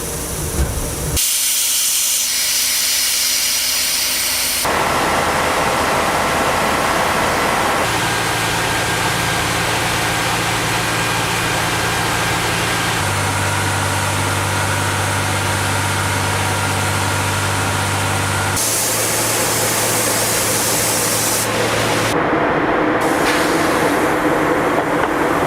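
Railway ballast cleaning machine working: heavy diesel machinery running with a steady low hum under a loud hiss of noise. The sound changes abruptly every few seconds, as separate takes of the machine follow one another.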